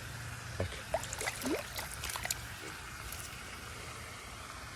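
Small splashes and sloshing of pond water around a bass held in the shallows, eased back and forth to push water through its gills before release. The splashes come in a short cluster in the first half.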